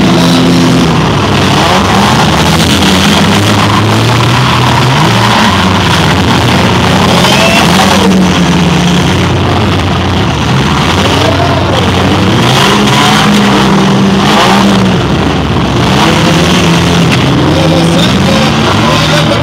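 Several demolition derby cars' engines revving hard at once, their pitches rising and falling as the cars push and ram, with a few sharp crash impacts mixed in. Loud throughout.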